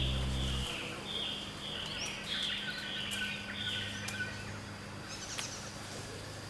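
The tail of the theme music stops under a second in, leaving outdoor ambience. A bird gives a series of short falling chirps, about two a second, for the first three and a half seconds, over a faint steady hum.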